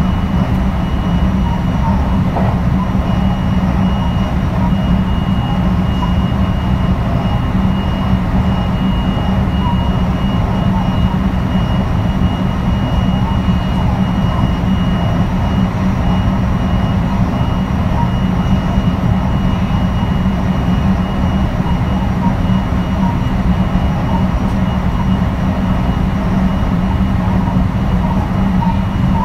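JR West 223 series 2000-subseries electric train running at a steady pace: a continuous rumble of wheels on rail, with a thin high steady tone that fades out about halfway through.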